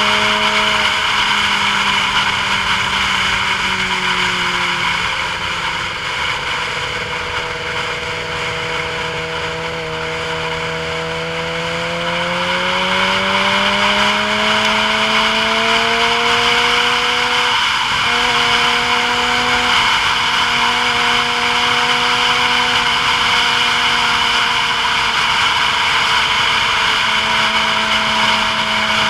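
Motor vehicle driving down a mountain road. Its engine or drive tone sinks slowly as it slows, then rises again as it picks up speed, over steady road and wind noise.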